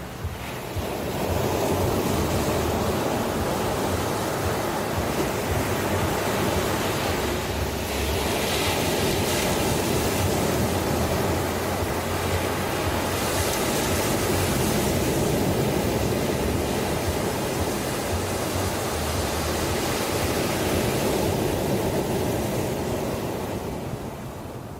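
Ocean surf washing ashore, a continuous rushing hiss that swells up about a second in and eases off near the end.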